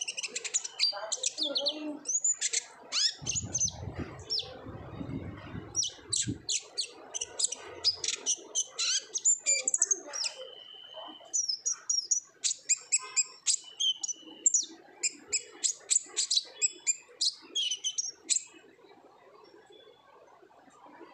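Kolibri ninja (konin) sunbird singing a fast, high chattering song of sharp chirps and trills, with a couple of short held whistles in the middle. A low rumble sounds under it from about three to six seconds in, and the song thins out near the end.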